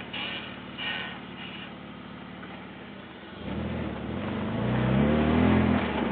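BMW E46 325i's straight-six engine accelerating: it rises in pitch and gets louder from about halfway through, then eases off near the end. Faint rhythmic high-pitched pulses come at the start.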